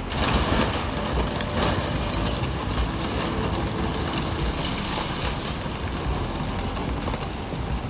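Storm noise: a steady rushing of wind and fast-flowing floodwater with a deep rumble.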